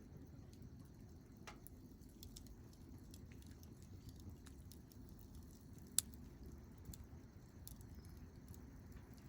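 Wood campfire burning quietly: faint crackling with scattered small pops over a low hiss, and one sharp pop about six seconds in.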